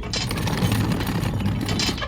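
Small electric motor on a DIY mini model tractor running with a low hum under a dense, rapid clatter of gears.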